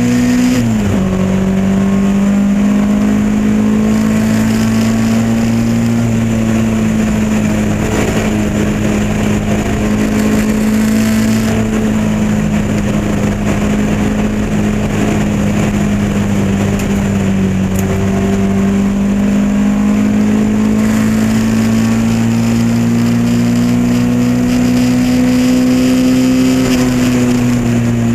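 Lotus Elan race car's engine running hard at high revs from onboard. Just after the start the pitch drops sharply with an upshift, then it holds near-flat throttle, the note sagging and rising slowly through the long corners.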